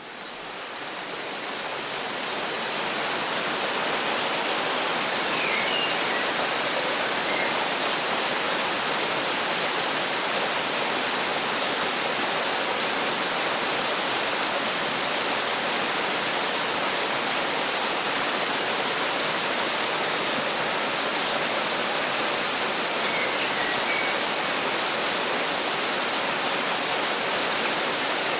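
Waterfall: a steady, even rush of falling water that fades in over the first few seconds and then holds level. Faint short high chirps come through twice.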